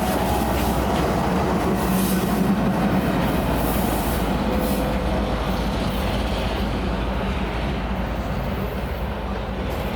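Train rolling past on the track, a steady rumble of wheels on rail that eases slightly near the end.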